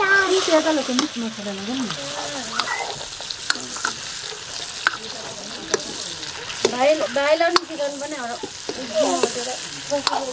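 Chicken curry sizzling in oil in a metal karahi as a steel ladle stirs it, clinking and scraping against the pan, with wavering squeaks at times.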